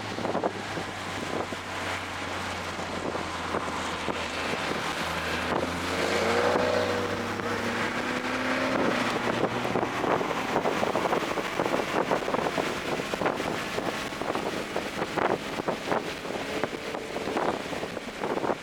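Onboard sound of a 2024 Toyota GR Corolla's turbocharged three-cylinder engine running under way, heavily mixed with wind buffeting on the microphone. A higher engine tone rises and bends in the middle. The low engine hum falls away about halfway through, leaving mostly wind noise.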